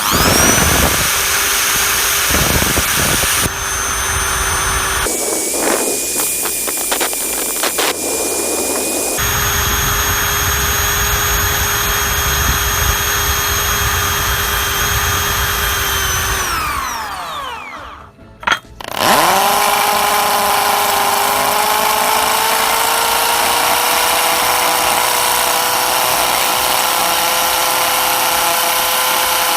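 Bosch GSB 550 RE 550-watt corded impact drill switched on and running at full speed with a steady high motor whine. It winds down about two-thirds of the way through, gives a brief blip of the trigger, then spins up again and runs steadily.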